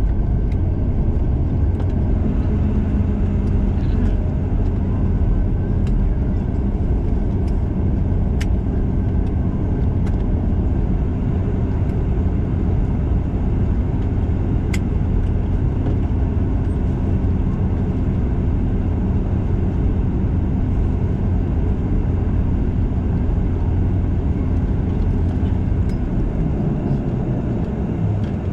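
Cabin noise inside a Bombardier Dash 8 Q400 turboprop on the ground after landing: the engines and propellers run with a steady low rumble and hum, with a few faint clicks. About two seconds before the end the engine note drops.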